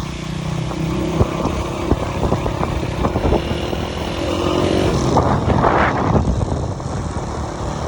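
Motorcycle engine running steadily on the move, with occasional knocks from the ride.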